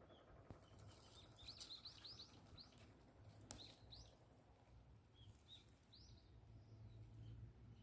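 Faint short bird chirps, a quick run of them in the first half and a few more later, over a low steady outdoor rumble, with one sharp click about three and a half seconds in.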